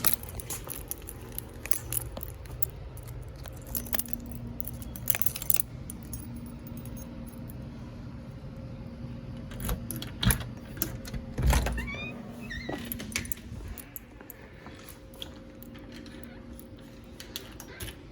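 A bunch of keys jangling and clicking as they are handled, in repeated short irregular bursts, over a low steady hum.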